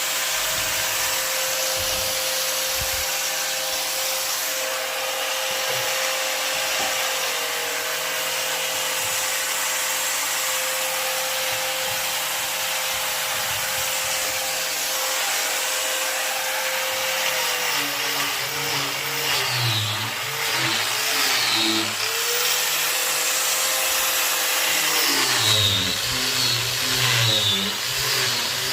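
Power tool motor running at a steady pitch, then repeatedly dipping and recovering in pitch as it is loaded working wood, with a steady stretch between the two loaded spells.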